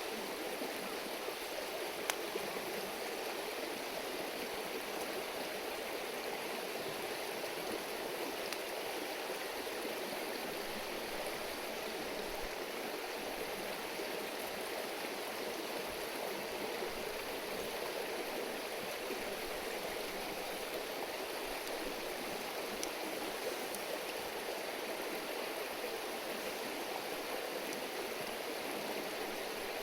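A shallow river babbling steadily over stones, with a few faint clicks now and then.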